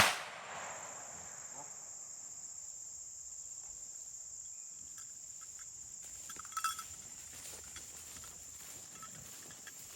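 Steady high-pitched chirring of insects such as crickets, with a single sharp, loud crack right at the start that dies away within about half a second, and a few faint clicks a little past the middle.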